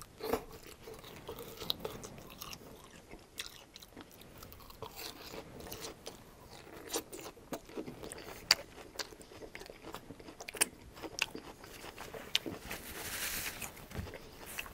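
Close-miked chewing of a mouthful of crisp iceberg lettuce salad in vinaigrette: irregular wet crunches and mouth clicks. A short soft hiss comes near the end.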